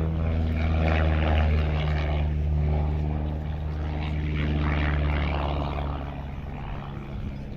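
Pitts S1 Special single-seat aerobatic biplane flying a low pass, its piston engine and propeller giving a steady drone that fades away near the end as it moves off.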